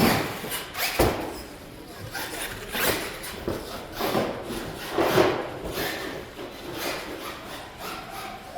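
Radio-controlled monster truck banging and landing on wooden ramps and obstacles: a string of irregular thumps and clatters, the heaviest at the start and about a second in, more around three, four and five seconds.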